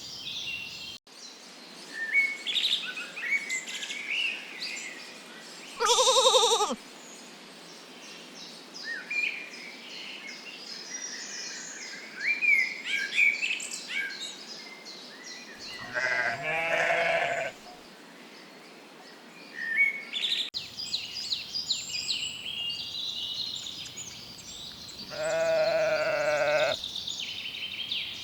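Sheep bleating three times: a short, higher bleat, then two longer, lower bleats of about two seconds each, with birds chirping throughout.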